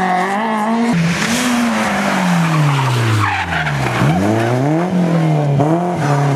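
Rally car engine at full stage pace, its pitch dropping steeply over a couple of seconds as it passes and slows, then revving up and down in quick throttle blips and lifts. Tyres squeal and scrub as the car slides through the bend.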